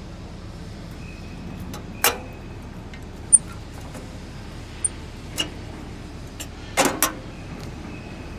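Foton Forland hooklift truck running steadily, with several sharp metallic clanks: one about two seconds in, smaller ticks after it, and a double clank near the end.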